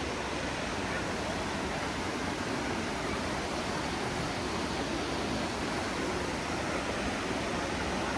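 Steady rush of a tall waterfall, water pouring down a roughly 200-foot drop, an even noise with no breaks.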